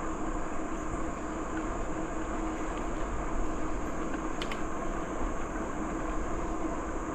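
Steady rushing noise of a bicycle ride on a trail: wind on the microphone and tyres rolling, with one brief click about four and a half seconds in.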